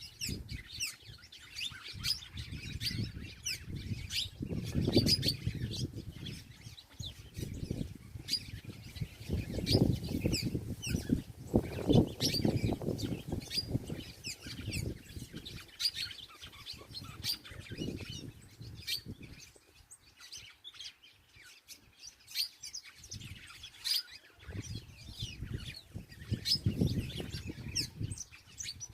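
Small birds chirping, many short high chirps throughout. Several times, louder low bursts of rustling or flapping noise come in, with a quieter stretch of chirping only after about twenty seconds.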